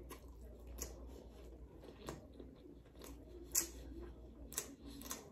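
A person chewing a mouthful of soft sandwich close to the microphone: scattered wet smacks and clicks from the mouth, the loudest about three and a half seconds in.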